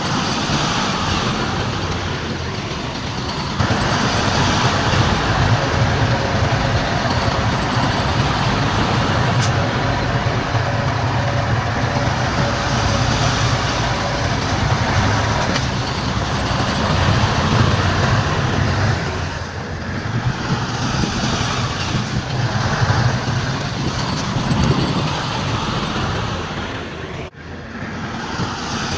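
Diesel engines of heavy earthmoving machinery, a bulldozer and dump trucks, running steadily under load. The level jumps abruptly about three and a half seconds in and drops out sharply for an instant near the end.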